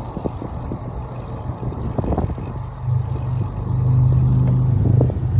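Vehicle running noise and wind rumble on the microphone while riding, with scattered knocks; a steady low hum grows louder about three seconds in.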